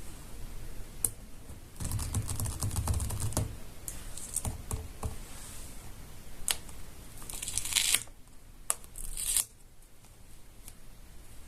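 Paper cut-outs being handled: rustling and crinkling with scattered taps and clicks. There is a denser rustle with soft bumps about two seconds in, and a rising crinkle just before eight seconds.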